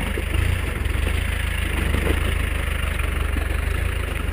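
Land Rover Defender's engine running steadily at low revs on a rocky off-road track: a constant low drone.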